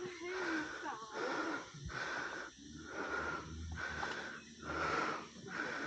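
Heavy, rhythmic breathing of a person climbing a steep trail, about one breath a second, with a faint wheezy whistle in each breath.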